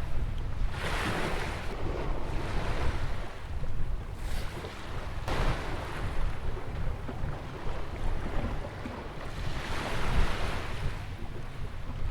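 Atlantic surf breaking and washing in around a beach jetty, a steady wash of noise that swells into louder hissing surges about a second in, around the middle and again near the end. Underneath runs a steady low rumble of wind on the microphone.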